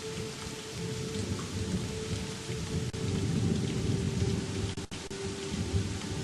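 Steady rain falling, with thunder rumbling low underneath and swelling from about three seconds in.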